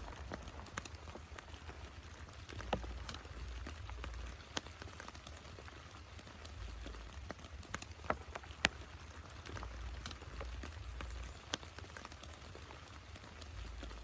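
Steady rain falling, with scattered single drops tapping sharply every second or so.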